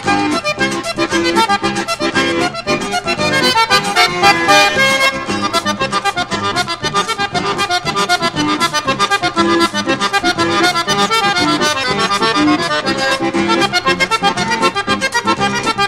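Accordion-led vanerão, a fast gaúcho dance tune, playing with a quick, even pulse of notes and no singing.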